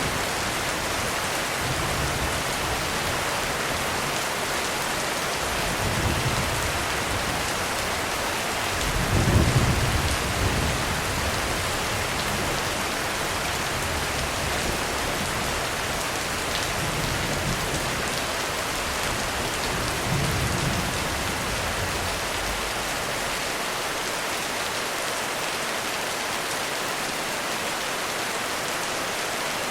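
Heavy rain pouring steadily on a roof, with thunder rumbling low several times; the loudest roll comes about nine seconds in, and the rumbling dies away over the last few seconds.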